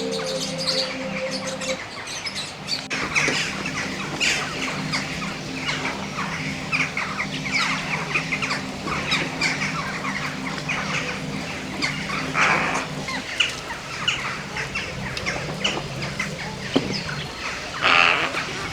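Birds calling and chirping in many short notes, with fowl clucking among them.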